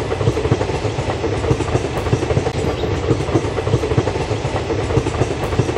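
Passenger coaches of a long-distance Indian Railways train rolling past, a steady clatter of wheels on the rails.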